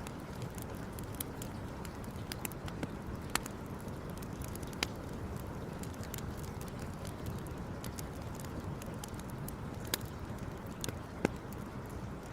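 Wood campfire crackling, with frequent small snaps and a few sharper pops, over a steady low background noise.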